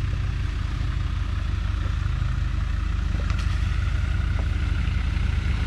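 A 4x4's engine running steadily at low revs as it waits to drive into a shallow ford, with the rush of flowing water beneath it.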